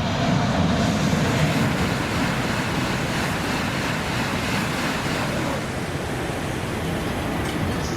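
Shinkansen bullet train running through the station at high speed without stopping: a loud, steady rush of wind and wheel noise.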